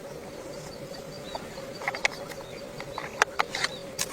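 A few scattered sharp clicks and taps over a faint steady hum.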